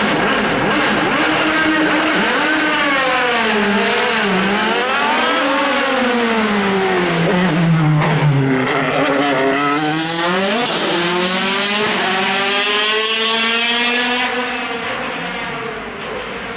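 Hill-climb race car launching from the start line and accelerating hard, its engine pitch climbing and dropping several times as it shifts up through the gears. The engine fades near the end as the car pulls away.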